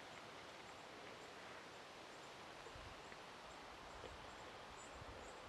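Near silence: faint outdoor ambience, a soft even hiss with faint high chirps recurring throughout and a few soft low bumps.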